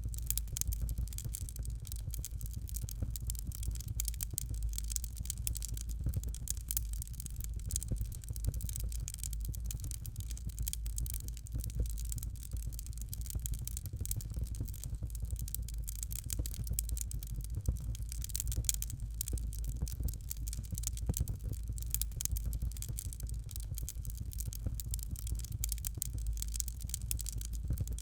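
Fire crackling in a fireplace: a dense run of small pops and ticks over a steady low rumble.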